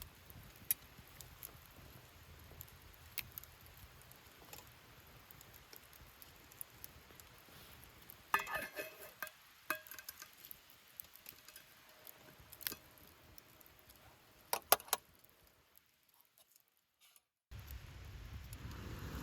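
Scattered light clicks and clinks of small hard objects being handled, with a brief ringing clink about eight seconds in and two sharp ticks later. The sound cuts out near the end, then a steady hiss begins.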